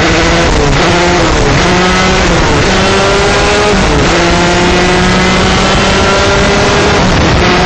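125cc two-stroke shifter kart engine at full throttle, its pitch climbing steadily. About four seconds in the pitch drops back at an upshift, then climbs again.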